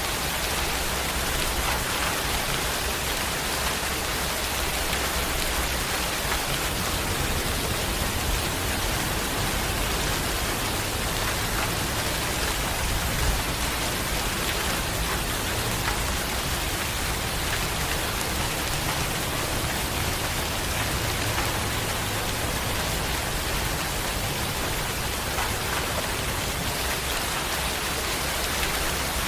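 Steady rain falling, an even hiss with scattered drop ticks and no let-up.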